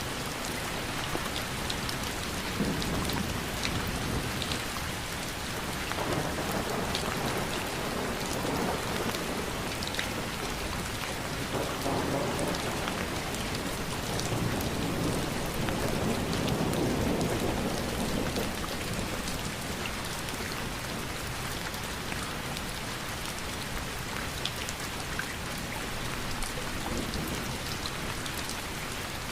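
Steady rain with fine drops pattering, and low rolling rumbles of distant thunder swelling and fading through the first half.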